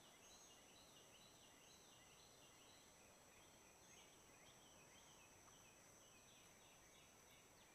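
Faint birdsong: quick falling chirps repeated in runs, several a second. A steady, thin, high-pitched tone sits underneath.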